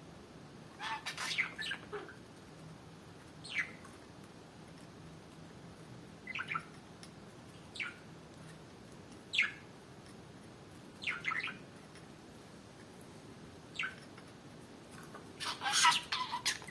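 Budgerigar giving short, scattered chirps, about eight separate calls spaced a second or two apart, with a longer run of chirps near the end.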